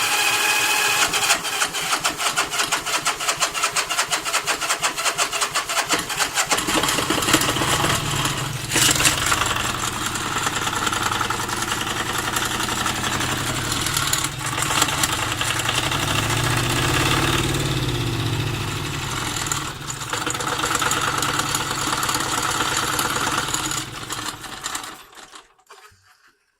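Honda GD90 479cc V-twin diesel engine cranking on its electric starter for about six seconds, then catching and running steadily. It stops near the end, winding down quickly.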